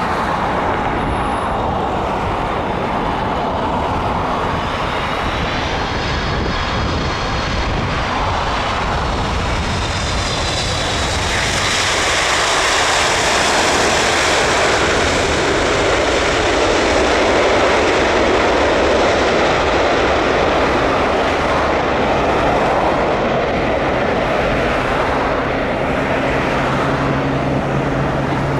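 Boeing 747-400 jet airliner landing, its four turbofan engines passing close by. A high whine is heard a few seconds in, and the engine noise grows to its loudest about halfway through before easing slightly. A low steady hum comes in near the end.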